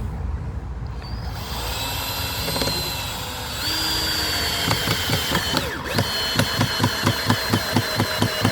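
Power drill-driver working a screw into the wooden gate: the motor runs with a steady whine, then from about halfway in it chatters in a rapid, regular run of sharp clicks.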